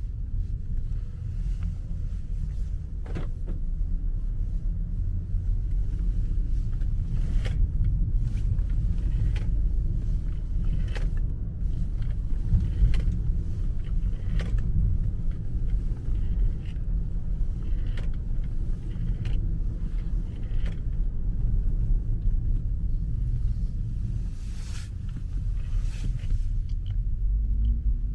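Road and tyre rumble inside a moving 2009 BMW 5 Series, heard from the boot, with an engine note rising near the start and near the end. Occasional sharp knocks come through, the rear clunk the owner complained of, which turns out to be a loose wheeled case in the boot rolling and banging against its sides on turns.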